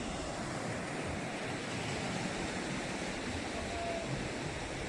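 Surf washing onto a beach in strong wind, a steady rushing noise, with wind buffeting the microphone.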